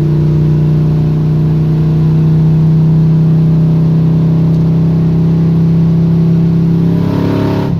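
Square-body Chevy truck's engine pulling under throttle while driving, a steady loud drone at an even pitch that brightens slightly near the end. The owner suspects the carburetor runs lean on the primaries going into the secondaries.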